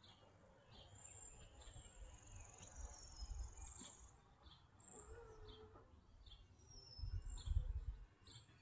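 Faint birdsong: high chirps and short whistles scattered throughout, with low rumbles about three seconds in and again near the end.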